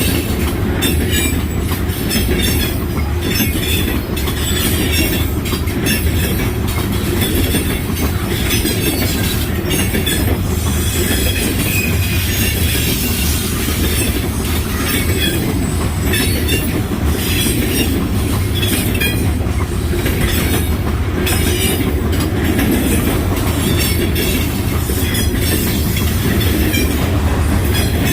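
Freight train cars rolling past close by: a steady loud rumble, with the wheels clacking in quick clicks over the rail joints and some squealing.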